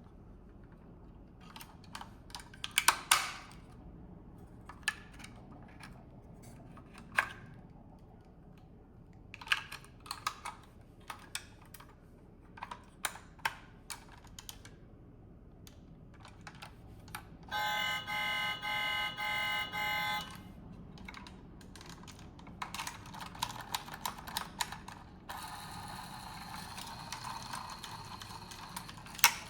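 Small plastic and metal clicks and taps, like the opening parts of a model car being worked by hand. Scattered clicks give way about halfway through to a loud pulsing electronic buzz lasting a couple of seconds, then to denser rattling clicks toward the end.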